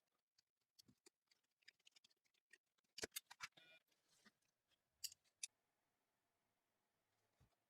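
Faint handling clicks and taps of small parts and tools on a workbench, with a quick run of sharper clicks about three seconds in and two more a little after five seconds.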